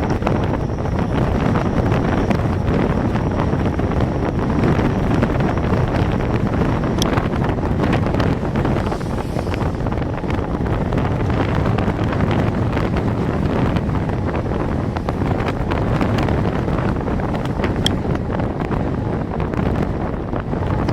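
Wind buffeting the microphone of a camera riding along on a moving bicycle: steady wind noise, heaviest at the low end, with a couple of faint ticks.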